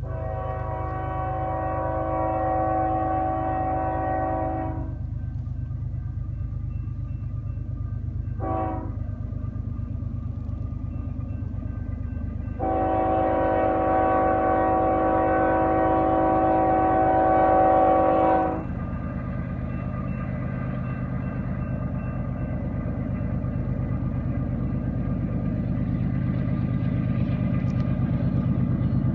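Locomotive multi-chime air horn sounding a long blast, a short blast, then another long blast, over the steady low rumble of the train, which grows louder near the end.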